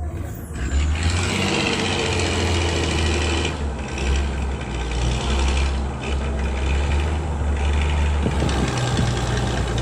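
A vehicle engine running steadily with a low, even hum, dipping briefly a couple of times.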